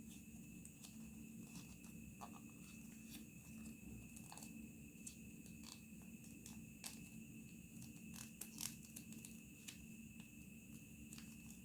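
Faint crinkles and ticks of origami paper being folded and creased by hand, scattered irregularly with a small cluster a little past two-thirds of the way in, over a steady low hum with a thin high whine.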